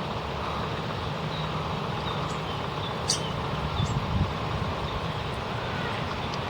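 Steady outdoor wind noise with a low rumble and hiss, and one short sharp click about three seconds in.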